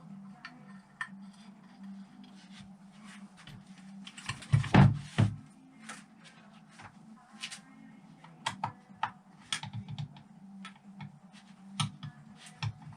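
Scattered clicks and light knocks of small metal engine parts being picked up and set down on a workbench, with a louder clatter about five seconds in, over a steady low hum.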